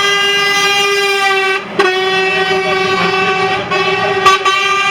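Truck air horn blowing a long, steady blast that breaks off briefly about a second and a half in, then sounds on, with a sharp click near the end.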